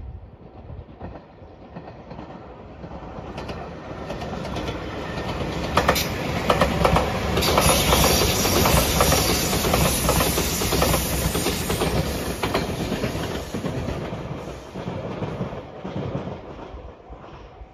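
JR Shikoku 8000 series electric limited express train passing, its wheels clattering over the rail joints. The sound builds from about four seconds in, is loudest from about six to thirteen seconds, then fades as the train moves away.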